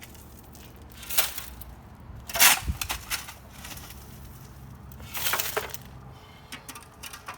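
A shovel scraping into and scooping loose construction rubble in three crunching strokes, the loudest about two and a half seconds in, over a low steady hum.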